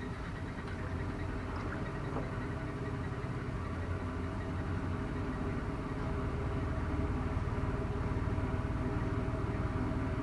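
GM 3.8-litre V6 engine idling steadily, getting slightly louder about six seconds in.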